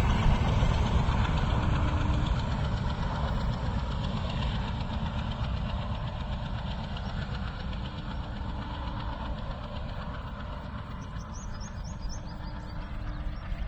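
Alco diesel locomotive hauling a train, its engine and running gear chugging with a deep rumble that slowly fades as it moves away.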